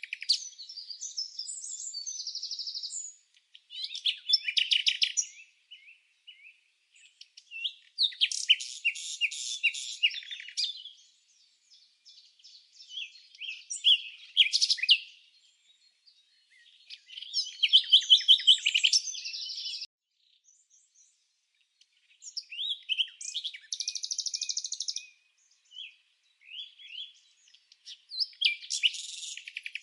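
A songbird singing in repeated high-pitched phrases of rapid trills and chirps, each a second or two long, separated by short pauses.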